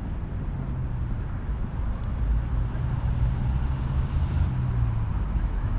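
City street traffic: a motor vehicle's engine hums steadily close by over the general rumble of the road, growing a little louder about two seconds in.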